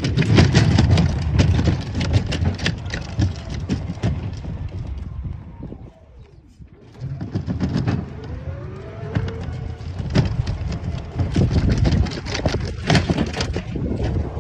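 Small electric vehicle driving over a rough country track, rumbling with frequent rattles and knocks from the bumps. About six seconds in it goes briefly quieter, and a thin motor whine falls and then rises in pitch as it picks up again.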